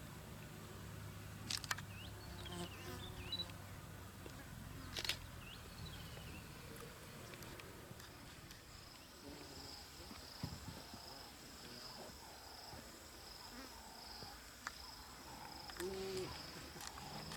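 Faint bush ambience. A steady, high-pitched insect buzz comes in about halfway through and carries on. Earlier there are a few sharp clicks, soft chirps and a low hum.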